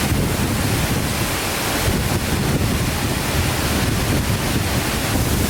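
Steady rushing roar of a large waterfall in heavy rainy-season flow, with wind buffeting the microphone.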